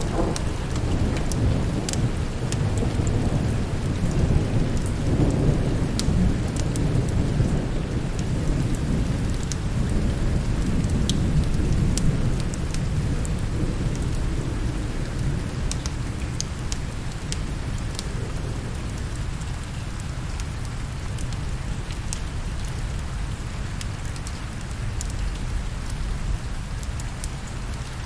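Steady rain with a long, low rolling rumble of thunder that fades away over the second half, and scattered sharp ticks throughout.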